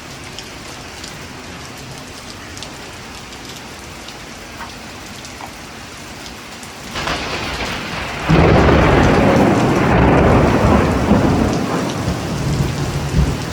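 Thunderstorm: steady rain with scattered drops ticking, then about seven seconds in the sound swells and a little after eight seconds a long, loud, deep rumble of thunder rolls in and slowly eases off near the end.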